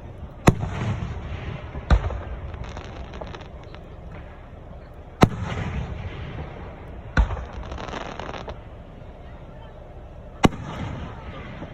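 Aerial fireworks shells bursting: five sharp bangs spaced one to three seconds apart, several of them followed by a second or so of crackle.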